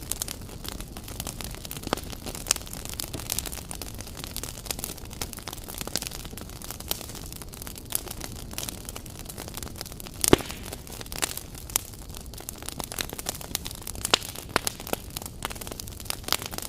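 Wood campfire crackling, with frequent sharp pops over a steady low rumble of the burning logs. One pop about ten seconds in is louder than the rest.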